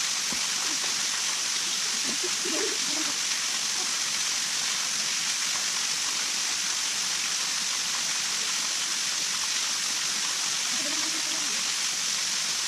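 Steady rushing of water, an even hiss with no breaks, with faint distant voices about two seconds in and again near the end.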